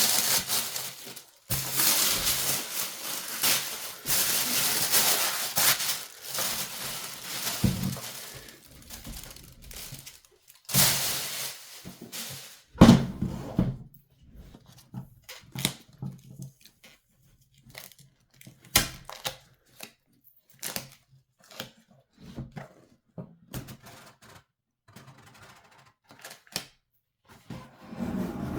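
Packaging crinkling and tearing for the first ten seconds or so, with a couple of heavier knocks. Then scattered clicks and light knocks as parts are handled.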